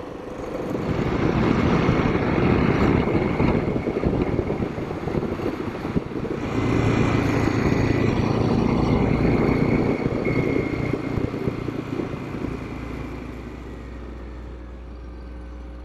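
Motorcycle riding on the road, heard from the rider's seat: engine running under a heavy rush of wind noise that swells twice, then eases off near the end to a quieter, steady low hum.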